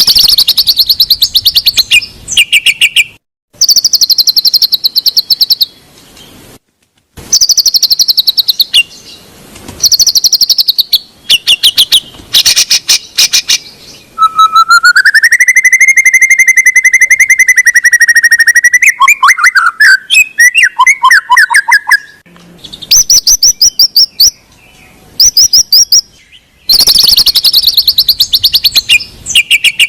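White-rumped shama (murai batu) song played as a lure recording: bursts of rapid, high chattering trills with short gaps. About halfway through comes one long rising whistle, followed by quick varied notes, then the fast trills return.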